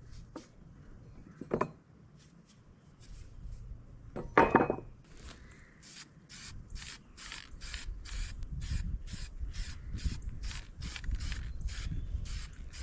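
A brush scrubbing a metal backhoe part clean in quick, even strokes, about two to three a second, getting steadily stronger. A knock and a louder clunk of the part being handled come before the scrubbing settles into its rhythm.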